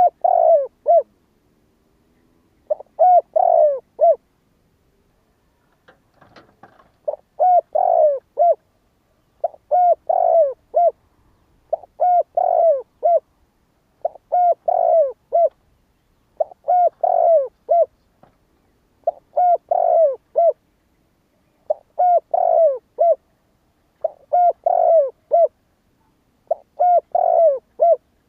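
Spotted dove cooing: a short phrase of several coos repeated about every two and a half seconds, with one longer pause of about three seconds early on.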